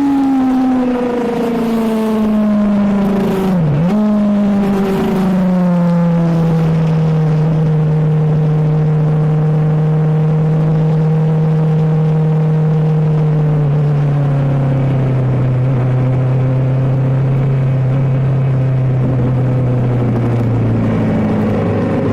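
Suzuki GSX-R750 K7 inline-four sport bike engine heard onboard, winding down from speed. The revs fall over the first few seconds with a brief sharp dip and recovery about four seconds in, then hold steady at low revs. Near the middle the revs drop lower again and keep sinking slowly. Wind rush fades as the bike slows.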